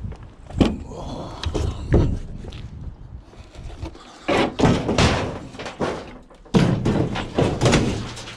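Scrap items being loaded into a van: a run of bangs, thuds and clatters, heaviest in the second half.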